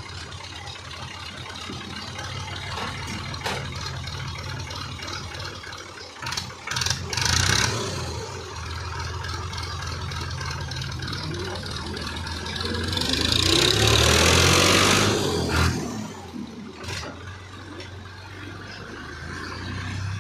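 Fiat 480 Special tractor's diesel engine running at idle and revved up twice: briefly about six to eight seconds in, then longer and louder around thirteen to fifteen seconds in, the pitch rising and falling back to idle.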